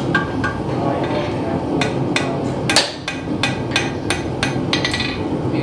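Blacksmith's hammer striking hot metal on an anvil: a few light ringing taps at first, then a run of blows about three a second from about two seconds in, over a steady low rumble.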